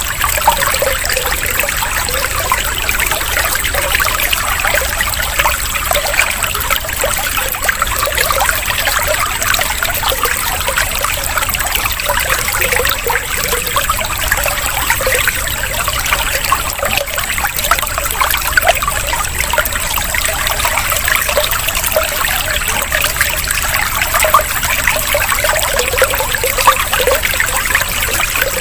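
Water trickling steadily, a continuous flowing-water sound used as a calming 'water therapy' interval.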